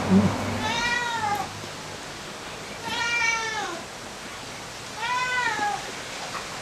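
A domestic cat meowing three times, each call about a second long and rising then falling in pitch. A short low thud comes just at the start.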